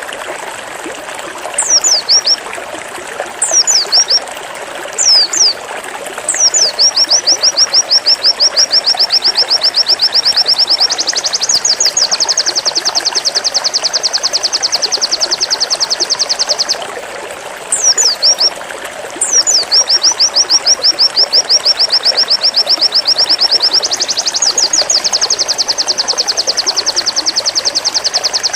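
Pleci (white-eye) singing its 'zipper' song: a few high down-slurred whistles, then a long fast run of rapidly repeated notes that steps up in pitch partway through. The pattern happens twice, over a steady hiss.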